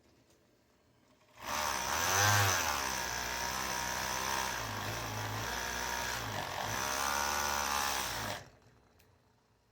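A small electric motor runs for about seven seconds, starting and stopping abruptly, its pitch rising and falling as it speeds up and slows.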